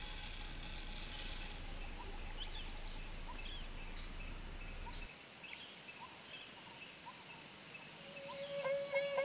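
Birds chirping faintly, with short quick calls sliding up and down in pitch, over a low rumble that cuts off about halfway through. Near the end, music fades in on a long held note.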